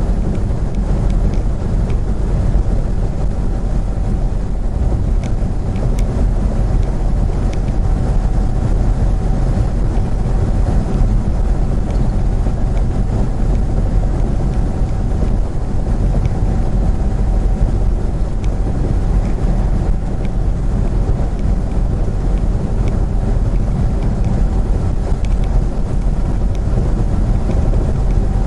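Steady road and engine noise of a moving vehicle heard from inside, a heavy low rumble with a faint steady hum above it.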